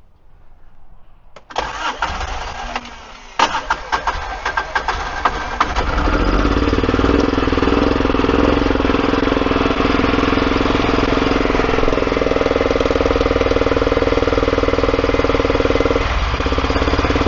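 2009 Kawasaki Mule 4010's fuel-injected V-twin is cranked by its starter, catches about two seconds later with uneven sharp firing, and settles into a steady, rough-sounding run. The rough running comes from one cylinder misfiring, as the owner judges.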